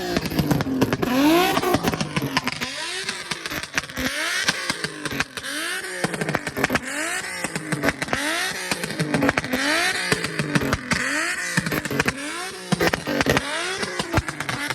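A car engine revved over and over in quick throttle blips, about one a second, each rev rising and falling in pitch, with sharp pops scattered between.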